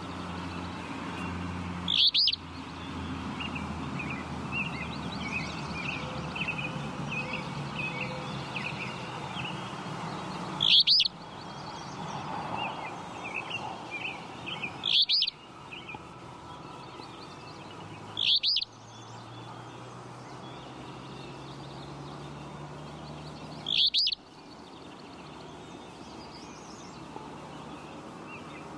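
Flycatcher calling: five loud, very short, high calls spaced several seconds apart. Softer twittering from other birds and a low steady hum run underneath.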